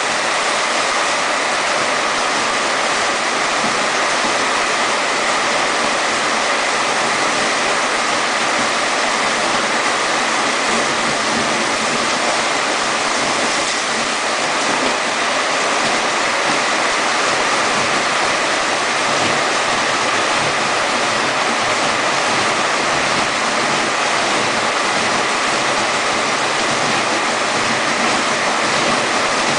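Heavy downpour with rushing water, a steady loud rush that does not let up.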